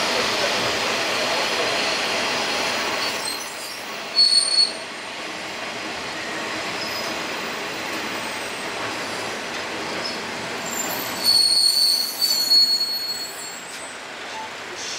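Diesel railcar of the KiHa 30/37/38 series running along the track, heard from inside by the door, with a high-pitched wheel squeal about four seconds in and again, longer, around eleven to thirteen seconds in.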